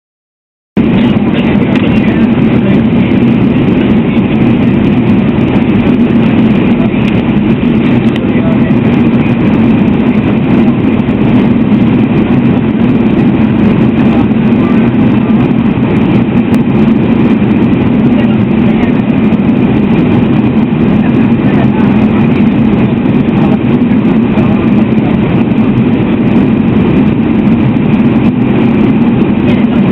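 Loud steady mechanical rumble with a strong low drone, cutting in suddenly just under a second in and running on unchanged.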